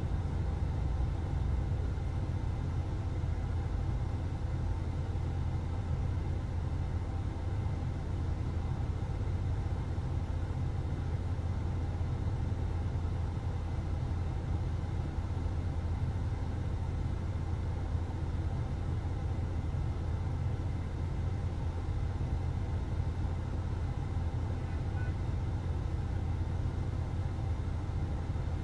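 Steady low rumble of a car on the move, even and unbroken throughout.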